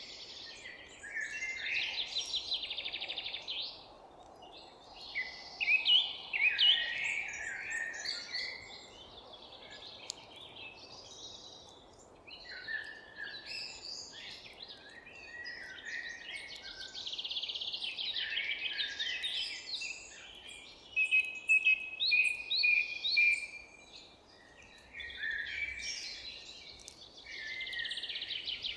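Several songbirds singing at once, a dense chorus of chirps, trills and rapid repeated notes, over a faint steady background hum.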